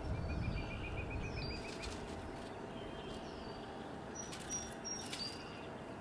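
Small wild birds chirping in the background: a fast trill of about ten short notes in the first second and a half, scattered thin chirps, and a few sharp high notes around four to five seconds in, over a low rumble that fades after the first two seconds.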